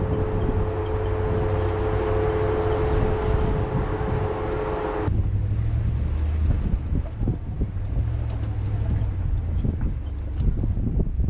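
2020 Ram 1500 Rebel pickup with a truck camper driving a rough, rocky mountain trail: a low engine and tyre rumble throughout, with irregular knocks and rattles from the rocks and the load. A steady whine in the first half cuts off suddenly about five seconds in, leaving the rumble and clatter.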